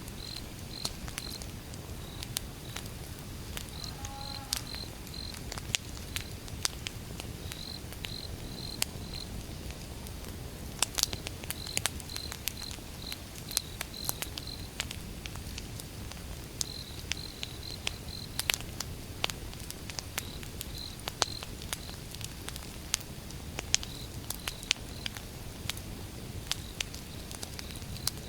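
Wood fire burning with a low steady rumble and frequent sharp crackles and pops from the logs. Crickets chirp throughout in short runs of three or four chirps.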